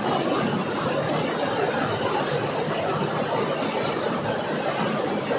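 Heavy tropical downpour: torrential rain falling steadily on the ground and roofs, a dense, even hiss.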